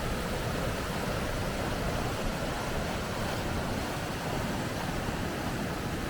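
Steady rushing of water over river rapids, an even roar with no breaks.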